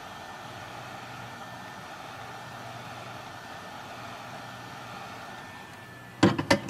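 Electric hot-air blower running steadily with a faint whine, used to soften the adhesive under a tablet's screen glass; it stops a little before six seconds in. Three or four sharp clicks and knocks follow as it is set down or the tablet is handled.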